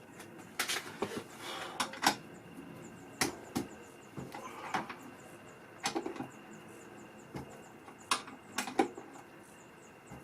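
Irregular clunks and clicks of hand tools and objects being handled and moved about, about a dozen separate knocks with short gaps between.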